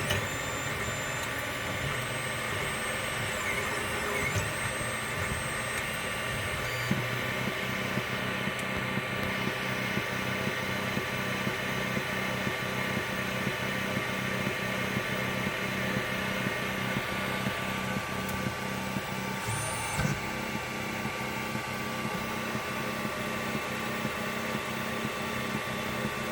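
Wanhao i3 Mini 3D printer running, its motors giving high whines that rise and fall during the first seven seconds and again briefly later. From about seven seconds in, a regular low pulsing about twice a second sets in: the strange noise the owner hears with the printer's pauses after each layer.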